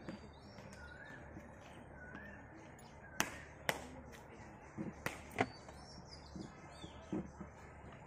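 A bird calls a short note that rises and falls, repeated about once a second for the first couple of seconds. Around the middle come four sharp knocks in two pairs, the loudest sounds here.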